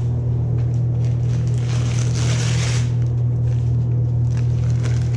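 Masking tape being peeled off a taillight lens in short ripping, crackling pulls, the longest lasting about a second just under two seconds in. A loud steady low machine hum runs underneath.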